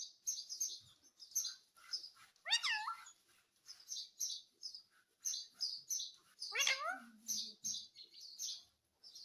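Indian ringneck parrot chirping in quick, high, short notes throughout, with two louder, drawn-out bending calls about two and a half seconds in and again near seven seconds.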